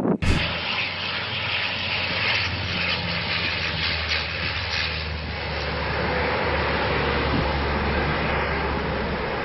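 Canadair CL-415 water bomber's twin turboprop engines running steadily at power, a rushing noise over a constant low propeller drone.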